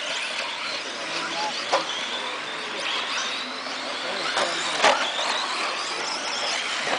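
Stock-class electric RC stadium trucks racing on a dirt track: high-pitched motor whines rise and fall as the trucks accelerate and brake, over steady tyre and gear noise. Two sharp knocks come about a couple of seconds in and near the middle.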